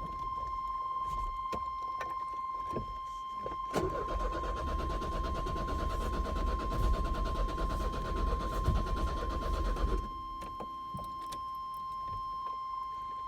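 1996 Chevy S10's starter cranking the engine for about six seconds without it catching, then stopping abruptly. A steady high-pitched tone sounds throughout.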